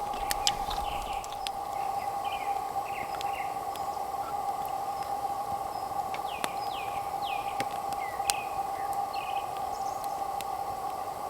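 Birds calling outdoors, with short chirps that drop in pitch, over a steady high hum, with a few scattered sharp clicks.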